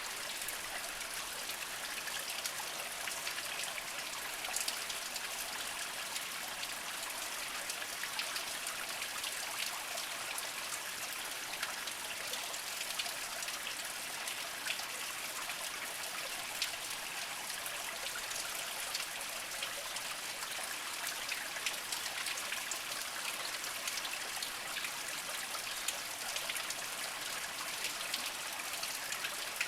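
Small mountain spring trickling slowly over mossy rocks: a steady water sound dotted with many small drips and splashes.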